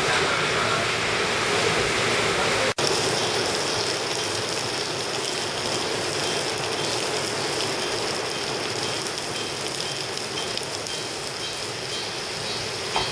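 Heavy rain pouring down in a steady hiss. The sound breaks off for an instant about three seconds in.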